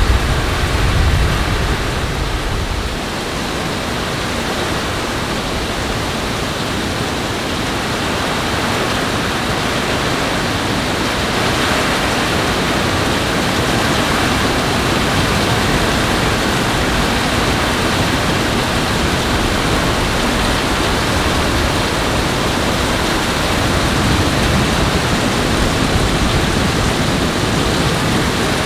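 Steady hiss of heavy rain pouring down during a thunderstorm, mixed with rushing water. A deep rumble sits under it for the first few seconds, then eases off.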